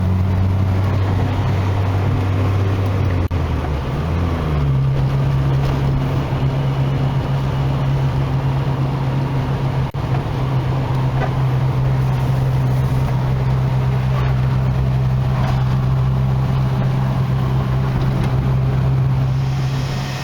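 Car engine and road noise heard while driving in a classic Nissan. The engine note changes about four seconds in, then holds steady as the car cruises.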